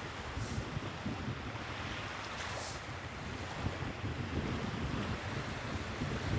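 Sea waves washing steadily, with wind buffeting the microphone in uneven low rumbles.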